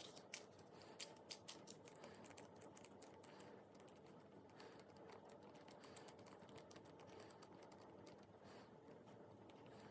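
Faint, quick sticky clicks and crackles of slime being pressed and worked by hand, densest in the first second or so and thinning out after.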